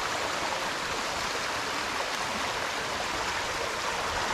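Steady rush of stream water over rocks, a small waterfall.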